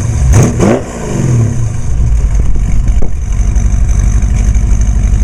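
Street rod's 350 Chevy small-block V8 revved briefly in the first second, the pitch rising and falling. It then settles into a steady, low, pulsing rumble.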